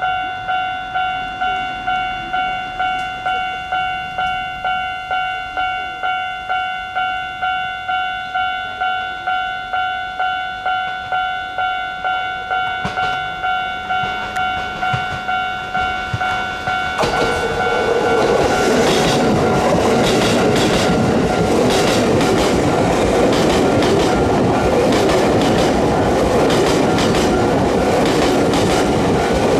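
A railway level-crossing bell ringing steadily at about two strokes a second. About halfway through it gives way to an electric train passing close by, loud and continuous, with its wheels clacking over the rail joints.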